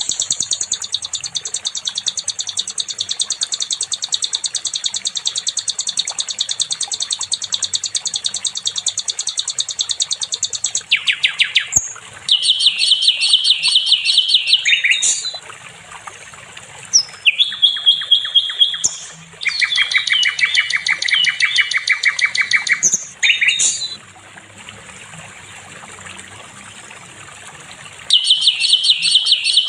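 Sikatan londo (a flycatcher) singing: a long, very fast, high-pitched trill of rapidly repeated notes lasting about eleven seconds, then shorter phrases of quickly repeated notes at changing pitches with short pauses between them, and a new trill beginning near the end.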